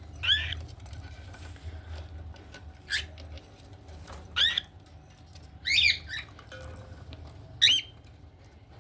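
Cockatiels giving short squawking calls, five brief calls spaced a second or more apart, over a low steady hum.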